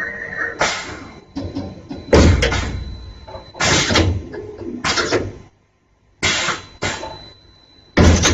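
Automatic tool changer of a BENCHMAN XT CNC milling machine changing tools: a series of short, loud hisses and clunks, about six in eight seconds.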